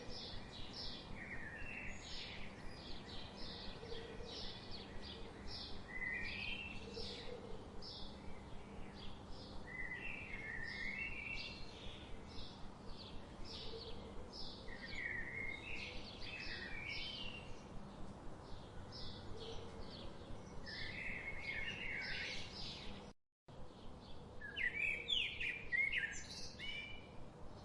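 Small songbirds chirping and twittering continuously: a fast run of short, high chirps mixed with lower, warbling twitter phrases every few seconds. The sound cuts out for a split second near the end.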